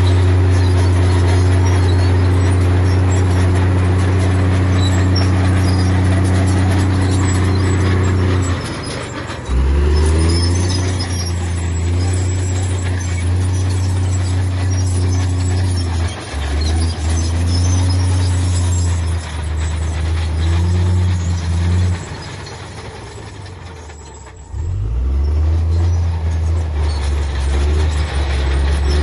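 Heavy diesel engine of earthmoving machinery working under load, easing off about 9 seconds in and again for a couple of seconds near the end before pulling hard again, with faint squeals over it.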